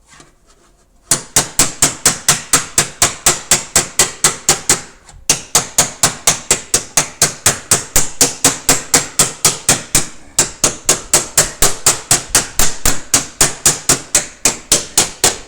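Body-repair hammer beating out a dent in a car's steel body panel: fast, even taps at about five strikes a second, in three runs with short pauses between them.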